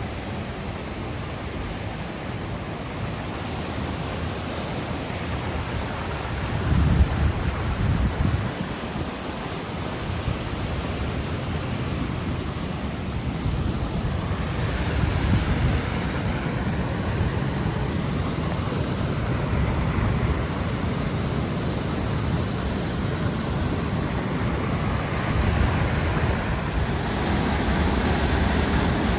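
Steady rushing of water, growing louder about halfway through. Gusts of wind buffet the microphone about seven seconds in.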